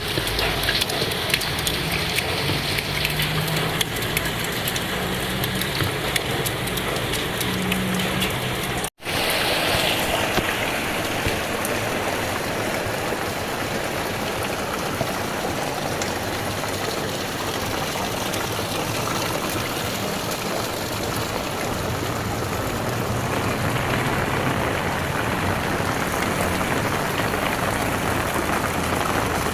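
Heavy rain falling steadily, with a brief cut-out about nine seconds in.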